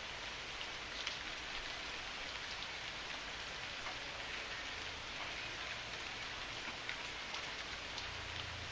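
Steady heavy rain, with individual drops ticking sharply now and then over the constant patter.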